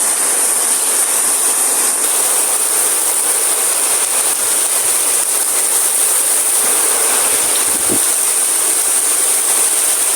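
Heavy rain pouring down steadily in strong wind, an even loud hiss.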